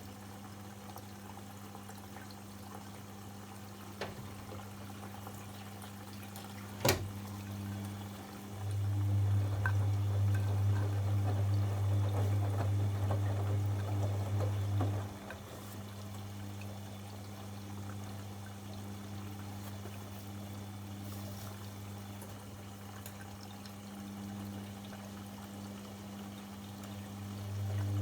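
Bosch Avantixx 7 front-loading washing machine mid-wash: water sloshing and trickling over a steady low hum. There is a sharp click about seven seconds in, and the hum grows much louder for about six seconds in the middle.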